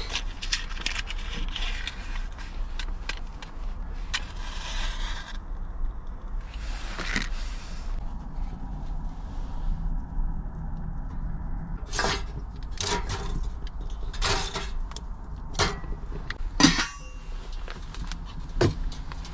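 Handling sounds at a small homemade charcoal stove: two short rustling hisses, then a run of sharp knocks and clinks of charcoal and metal, the loudest near the end, over a steady low hum.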